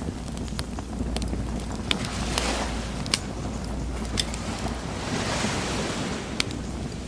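Sea waves washing ashore, swelling twice, over a low steady rumble, with a wood bonfire crackling: sharp pops scattered throughout.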